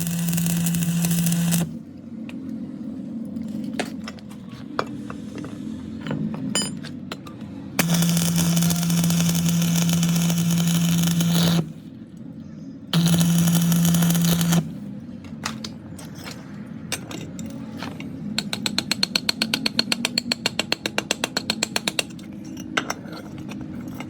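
A workshop power tool runs in three bursts of a few seconds each, a steady hum with a hiss on top, with handling clatter between them. Later comes a quick run of evenly spaced clicks lasting about three seconds.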